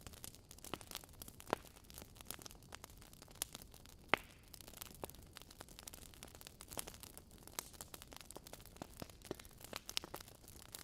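Wood logs burning in a fireplace, crackling with frequent irregular snaps and pops over a low hiss; two sharper pops stand out, one about a second and a half in and a louder one about four seconds in.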